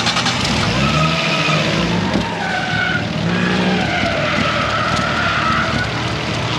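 Drift car engines revving hard, the pitch climbing and dropping repeatedly, over the hiss and screech of tyres sliding on the track.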